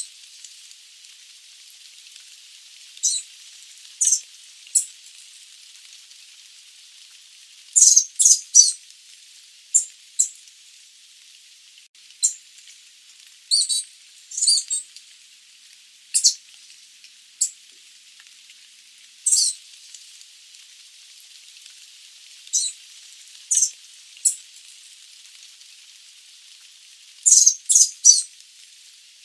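Sooty babbler giving short, high calls, some single and some in quick runs of two to four, over a steady hiss.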